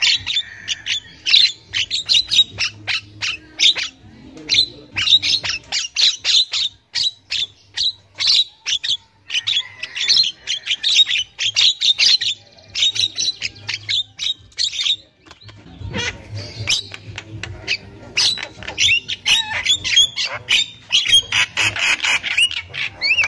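Javan myna (jalak kebo) calling in a fast, chattering run of short, harsh notes, with a brief lull partway through.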